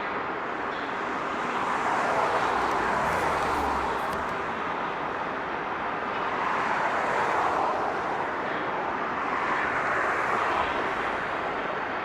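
Road noise from vehicles, swelling and fading a few times as they pass, with no pitched engine tone standing out.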